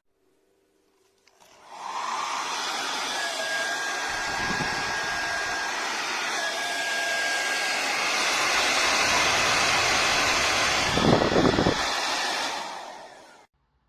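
Hair dryer running, a steady rush of blown air with a faint thin whine, starting about a second and a half in and cutting off abruptly near the end. Low rumbling surges come and go, the strongest about eleven seconds in.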